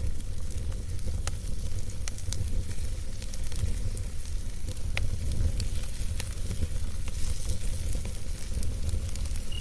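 Wood campfire burning, with sharp crackles and pops at irregular intervals over a steady low rumble.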